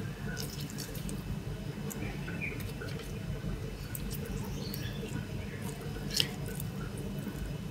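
A lemon squeezed by hand over spice-coated raw chicken legs in a steel pot: faint squelches and juice drips with small scattered clicks, one a little sharper about six seconds in.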